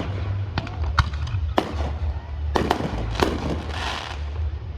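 Aerial fireworks going off in a quick irregular series of sharp bangs, some in close pairs, with a brief crackle just before the end, over a steady low rumble.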